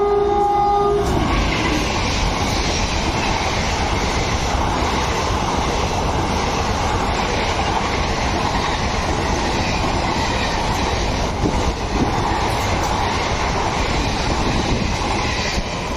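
Express passenger train passing through a station at speed behind a WAP4 electric locomotive. The locomotive's horn stops about a second in. After that the coaches' wheels on the rails make a steady, loud running noise.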